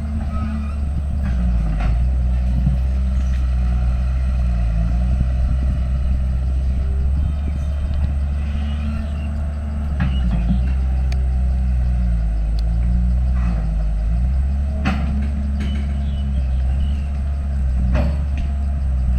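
Heavy diesel earthmoving machinery working: the engine runs loud and steady, its note dipping and rising a few times under changing load, with a few sharp knocks.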